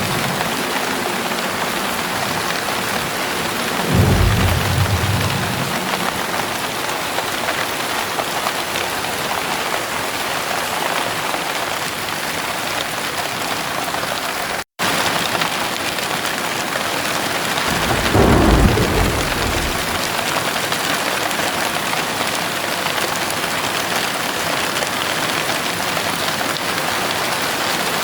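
Heavy rain pouring steadily, with two low rumbles of thunder, about four seconds in and again about eighteen seconds in. The audio cuts out to silence for a split second about halfway through.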